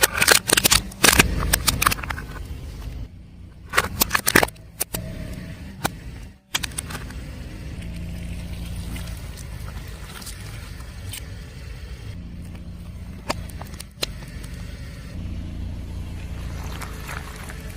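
A car tyre rolling over crunchy objects and crushing them, with loud cracks and crackles in the first two seconds and again around four seconds in. Between and after the crushes the car's engine and tyres rumble steadily.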